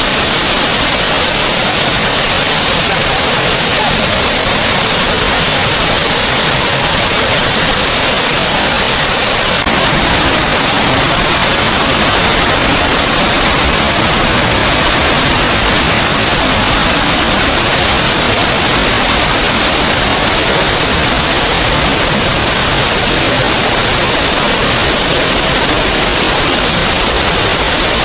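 Small waterfall: water falling and splashing in a loud, steady rush, with a slight change in its deeper tone about ten seconds in.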